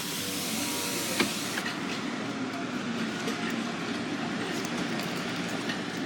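Steady rushing road and wind noise of a moving car, heard from inside the cabin, with a single click about a second in.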